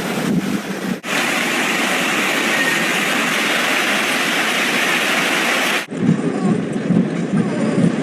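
Steady rushing noise of heavy rain and running floodwater, in short clips that cut off abruptly about a second in and again near six seconds.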